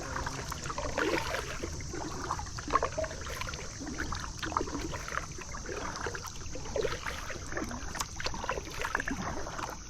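Kayak paddling in shallow water: irregular dips and splashes of the paddle, with a steady high insect drone.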